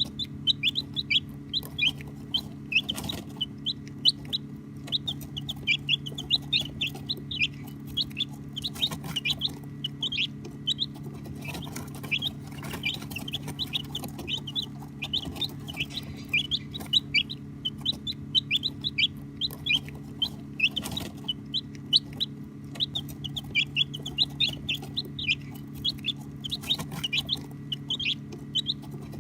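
A brood of baby chicks peeping continuously: many short, high peeps overlapping one another, over a steady low hum.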